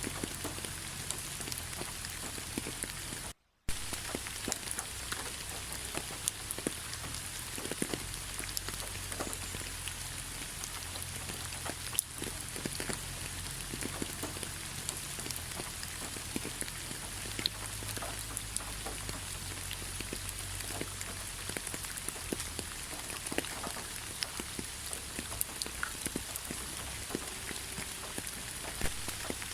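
Steady rain falling on a forest road, with many separate drops ticking sharply through the even hiss. The sound cuts to silence for a moment about three and a half seconds in.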